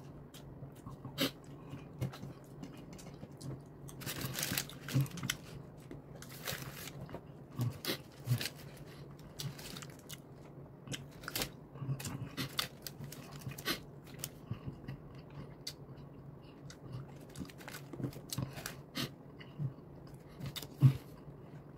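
Close-up chewing of someone eating a chicken sandwich: irregular crunches and mouth clicks at uneven intervals, a few louder bites among them.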